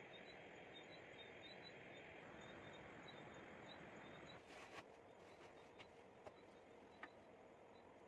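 Faint outdoor ambience: a steady hiss with a string of short, high chirps through the first half, then a few sharp clicks in the second half.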